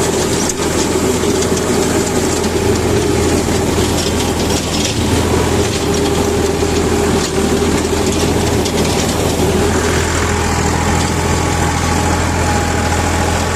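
Ford tractor engine running steadily under load as it drives a rotavator, with the rotavator's blades and gearing rattling and clattering throughout.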